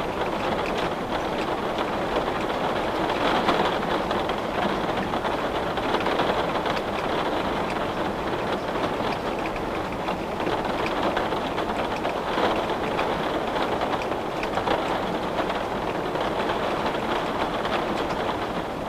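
Steady rain on window glass: an even hiss of rainfall flecked with many small drop ticks.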